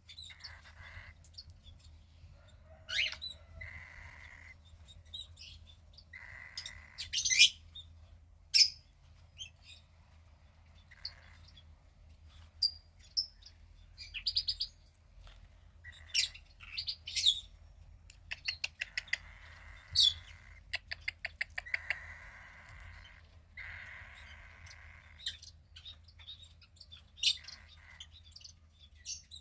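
A 15-day-old cockatiel chick calling: short, sharp chirps scattered throughout, quick runs of rapid clicks, and several hissy calls about a second long. A faint steady low hum runs underneath.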